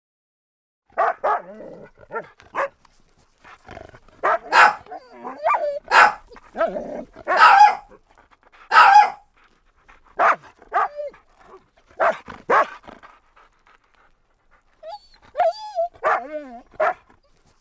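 Dog barking: short barks in several bouts with pauses between, the later ones higher and more yelping.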